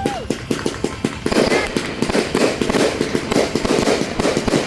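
Fireworks going off in quick succession: many sharp pops and crackles that grow denser from about a second in.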